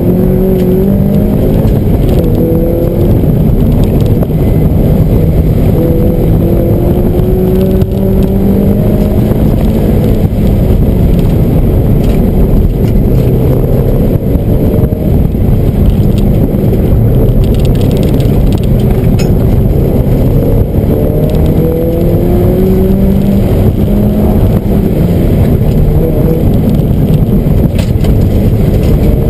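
Mazda Miata's 1.8-litre four-cylinder engine, heard loud from inside the cabin, repeatedly revving up under acceleration and dropping back as the car is driven hard around an autocross course, over a steady rumble of road and tyre noise.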